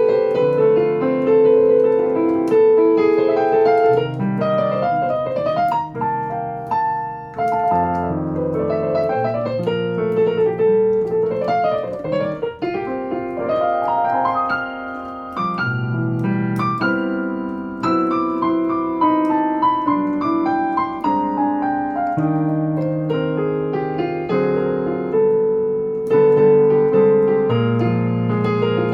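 Solo acoustic piano playing a jazz ballad, chords held under a single-note melody with flowing runs in the upper register over sustained bass notes.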